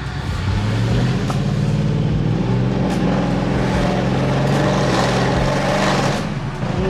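Stage-2-tuned Audi RS6 with a catless downpipe and REDSTAR exhaust, its engine note rising under acceleration about a second in, then holding a steady drone before easing off near the end.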